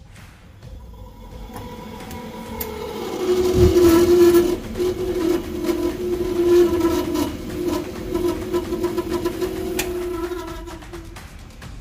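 Ideal Classic boiler's combustion fan running with a steady hum, just freed from being seized with oil as a temporary repair. The hum grows louder about three seconds in, with a thump, and cuts off near the end.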